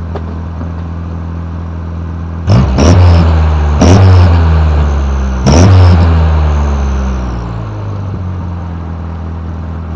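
Saturn car's engine idling, then revved in three quick blips about a second and a half apart. A novelty turbo whistle fitted in the tailpipe gives a high whistle with each rev, fading as the engine drops back to idle.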